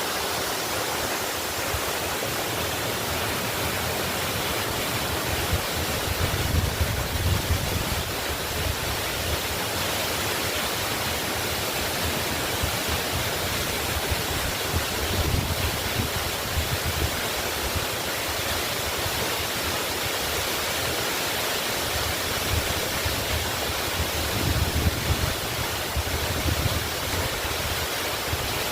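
Waterfall rushing in a steady, even roar, with a deep low rumble swelling up three times, about six, fifteen and twenty-four seconds in.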